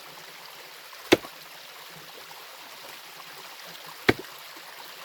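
Two sharp strikes of the pointed end of a pickaxe on stream bedrock, about three seconds apart, over a steady rush of running stream water.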